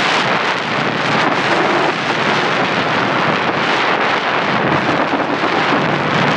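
Snowstorm wind blowing hard across the microphone: a loud, steady rushing noise.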